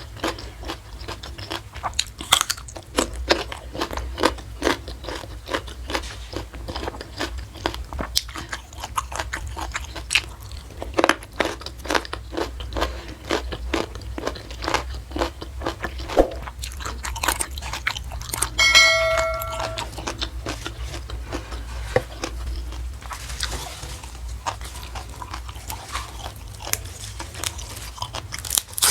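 Close-miked chewing and crunching of raw vegetables and fried fish, with many irregular crisp bites, over a steady low hum. About two-thirds of the way in there is a short pitched tone lasting about a second.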